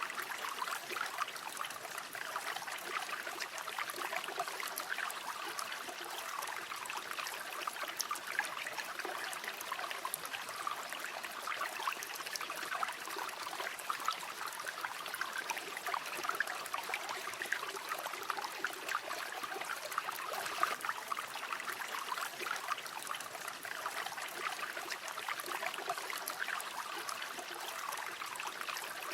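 A river flowing steadily over stones, a continuous burbling rush of running water with many small splashes and trickles.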